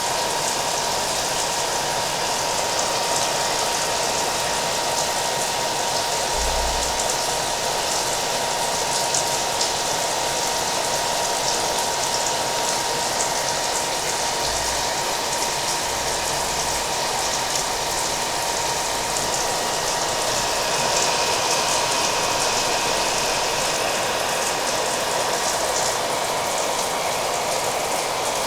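Hair dryer running steadily, its rush carrying a thin steady tone, mixed with steady rain.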